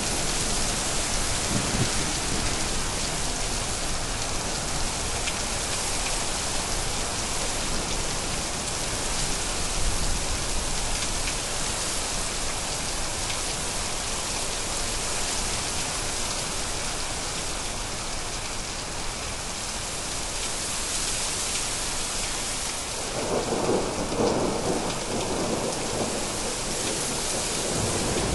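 Thunderstorm: steady rain hissing, with a roll of thunder rumbling up about three-quarters of the way through and fading near the end.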